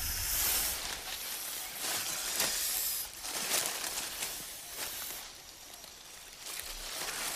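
Dry leaves rustling and crackling in irregular bursts as a king cobra and the snake it has seized writhe through the leaf litter.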